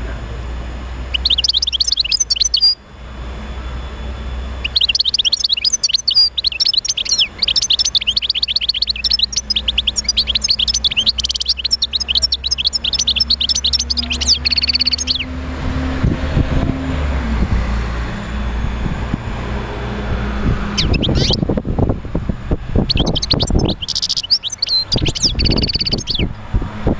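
European goldfinch singing rapid, twittering phrases of fast high chirps: a short phrase, a long run of about ten seconds, then after a pause two shorter phrases. A steady low hum lies under it, with some low rumbling in the second half.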